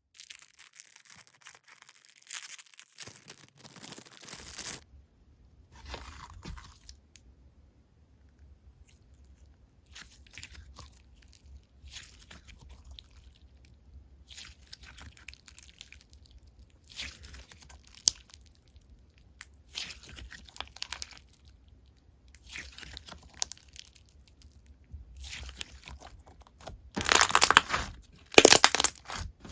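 Slime being squeezed and pressed by hand, giving separate bursts of crackly, crunchy sound every second or two, loudest near the end, over a faint low hum.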